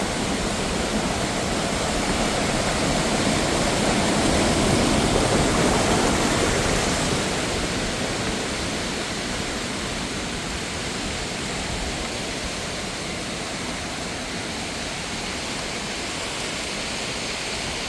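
Steady rush of fast-flowing mountain water, swelling a few seconds in and easing back a little after about seven seconds.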